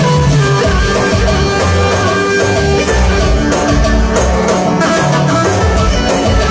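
Live band music in an instrumental passage: a plucked-string lead, guitar-like, over a steady bass line and accompaniment, with no singing.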